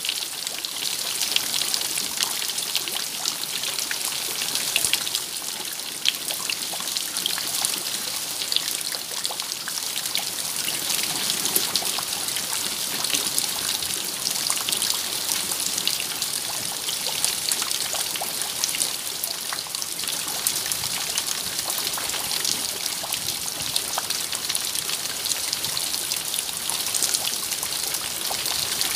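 Steady rain falling, with many separate drops pattering and ticking over a constant hiss.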